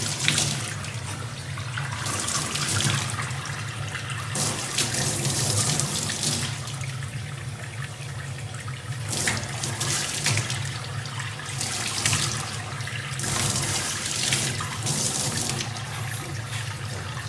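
Water running from a tap into a sink, the splashing swelling and easing again and again.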